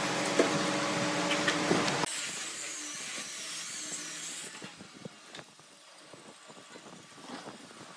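A power tool runs steadily with a hum and a hiss, then stops abruptly about two seconds in. After that come quieter scattered light knocks and taps of work on wood.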